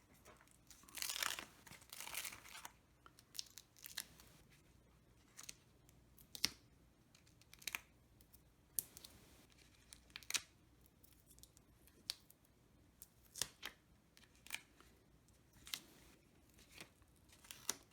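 Paper-crafting handling sounds: foam adhesive dimensionals being peeled off their backing sheet and pressed onto paper bird cut-outs. A soft peeling scrape comes about a second in, followed by scattered light clicks and taps.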